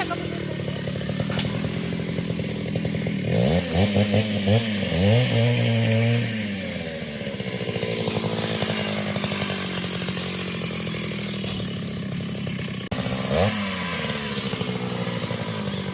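Chainsaw engine running steadily, revved up and down several times a few seconds in and once more briefly near the end.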